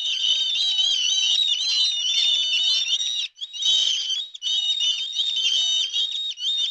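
Many small birds chirping together in a dense, high-pitched chatter, broken off briefly twice.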